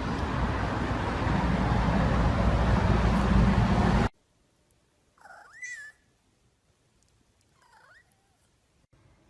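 A loud, dense noisy stretch cuts off suddenly about four seconds in. Then a domestic cat meows twice, short and quiet, each call bending up and then down in pitch.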